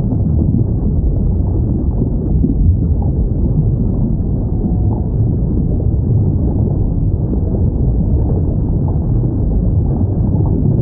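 Steady deep underwater rumble with a few faint, short whale calls about halfway through.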